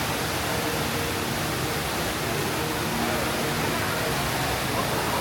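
Steady rushing of the Rain Vortex waterfall, with a faint murmur of people's voices under it.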